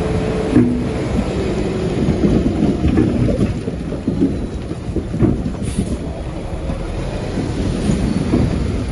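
Shantui bulldozer working: a deep, continuous diesel rumble with scattered metallic clanks.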